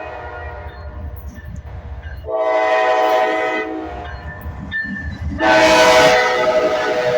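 Diesel locomotive's multi-chime air horn: a fading tail at first, then a loud blast a little over two seconds in that lasts over a second, and another loud blast starting about five and a half seconds in and held, over the low rumble of the train.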